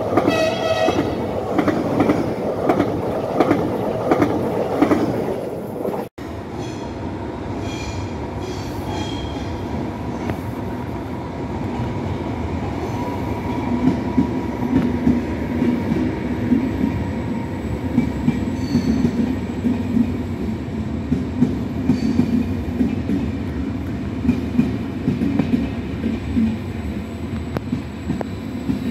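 A Trenitalia Pop electric multiple unit passes close by, its wheels clattering regularly over the rail joints. After a sudden cut about six seconds in, a double-deck regional train moves slowly through a station with a steady rumble and scattered wheel clicks; the rumble grows stronger about halfway through.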